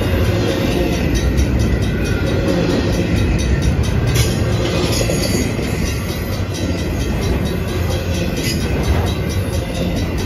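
A double-stack intermodal container train passing close by: a steady rumble of steel wheels on rail, with repeated clicks and clatter as the wheels roll over the rail joints.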